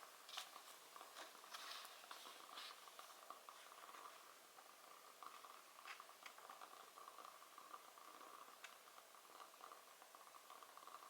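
Wood fire crackling faintly in a fireplace, with scattered sharp pops.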